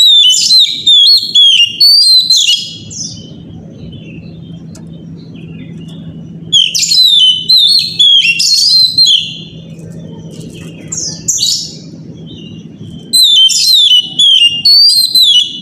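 Oriental magpie-robin (kacer) singing loud, rapid whistled phrases in three bouts of two to three seconds each, with short pauses between, over a low steady hum. It is a bait song ('pancingan') played to set other magpie-robins singing.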